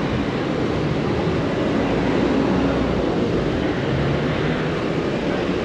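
Steady city street traffic heard from a moving bicycle: a continuous low rumble of vehicles with no distinct events.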